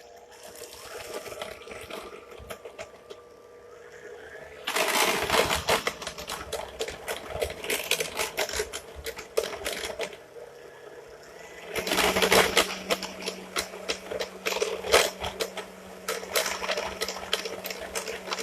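Electric mixer beating a creamed butter, sugar and egg batter, the beaters rattling rapidly against the bowl. The rattle starts about five seconds in, eases briefly around ten seconds, then comes back with a steady motor hum beneath it.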